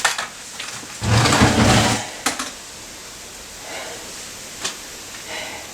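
Workshop handling noises as the motorcycle and its parts are moved: a loud scraping rumble lasting about a second, starting about a second in, then a few scattered light knocks and clicks.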